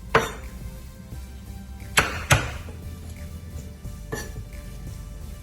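Three sharp kitchen knocks, one early and two close together about two seconds in, as garlic is added for chicken wings, over soft background music.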